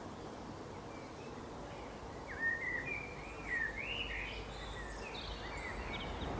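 Songbird singing a run of quick, rising and falling whistled notes starting about two seconds in, over a steady outdoor background hiss.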